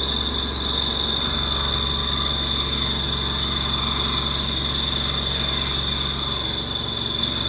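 CNC milling: a Haas Mini Mill 2 spindle driving a single-flute high-feed end mill through 6Al-4V titanium. It is a steady cut with a constant high whine over a low hum, and it sounds pretty good.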